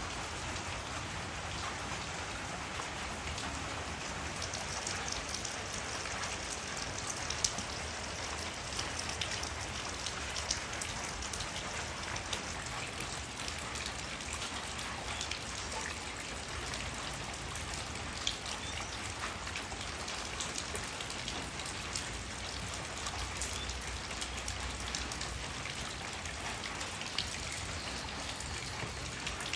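Steady rainfall, with many individual drops ticking on surfaces and a handful of louder single drips standing out.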